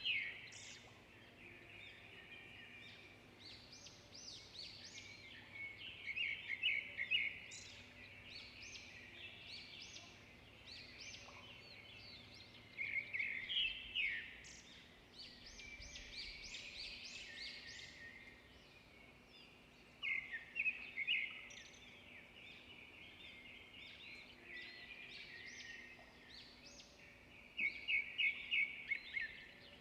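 Songbirds singing and chirping throughout, with a louder phrase of quick repeated notes coming back about every seven seconds.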